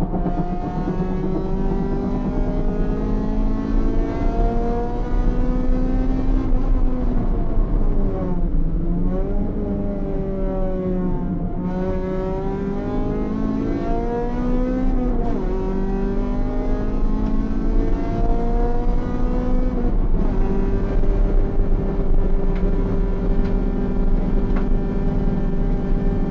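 Honda Civic's B18C four-cylinder race engine heard from inside the cockpit, driven hard through the gears: its pitch climbs and drops at each shift, dips and rises through a slower corner about eight to nine seconds in, then holds steady near the end.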